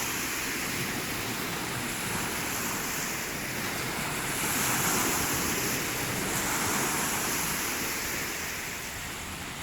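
Lake waves washing in: a steady rush that swells and ebbs slowly, with some wind on the microphone.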